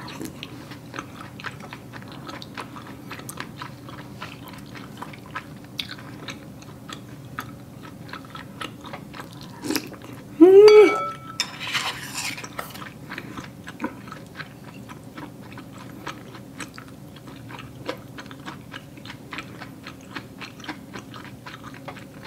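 Close-up chewing of chewy Korean rice cakes in soup, with many small wet mouth clicks and smacks. About ten seconds in there is a short hummed sound, then a brief breathy one.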